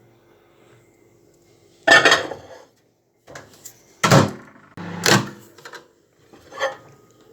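Knocks and clatters from a microwave oven being loaded: about five separate bumps of door and dish, the loudest about two and four seconds in, over a faint steady hum.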